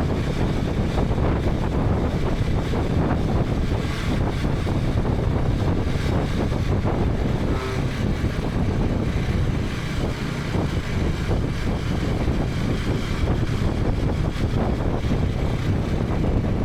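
KTM 250 Adventure's single-cylinder engine running under way, with a steady rush of wind on the microphone.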